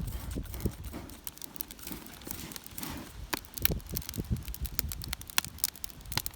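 Campfire crackling as the wood catches: irregular sharp pops and snaps, several a second.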